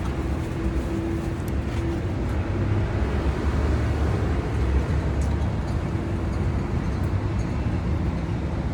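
Steady low rumble of street traffic and idling engines, with a faint steady hum that comes and goes.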